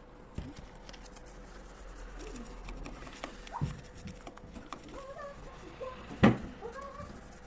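Household handling noises during window and kitchen cleaning: scattered light clicks and taps with a few short squeaks, and one sharp knock about six seconds in.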